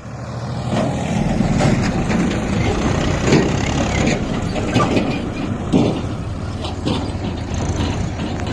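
A diesel tractor engine running steadily under load as it pulls a loaded trolley.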